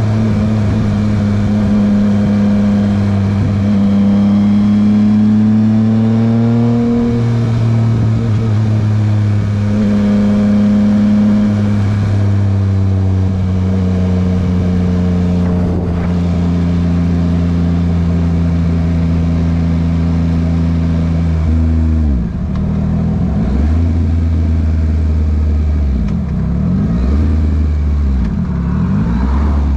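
Yamaha MT-09 engine running through a Dominator HP3 aftermarket exhaust while riding, holding fairly steady revs with a few shifts in pitch. About twenty-two seconds in, the revs drop, then rise and fall several times in quick succession.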